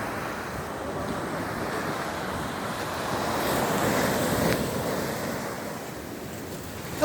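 Waves washing in, with wind buffeting the microphone; the surge swells briefly about halfway through.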